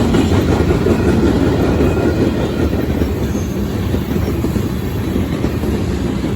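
Freight train cars rolling past on the rails, a steady loud rumble of wheels on track that eases slightly toward the end.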